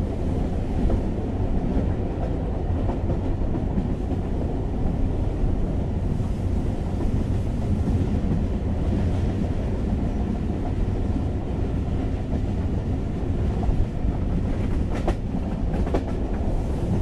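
Passenger train running, heard from inside the carriage: a steady low rumble of wheels on the rails, with a few faint clicks near the end.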